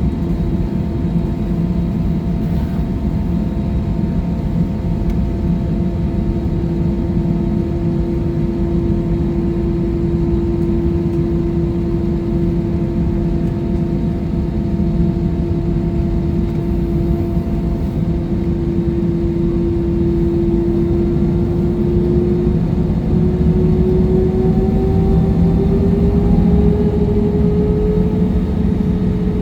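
Jet airliner's engines heard from inside the passenger cabin: a steady hum over a broad rumble, whose pitch rises over the last several seconds as the engines spool up to higher thrust.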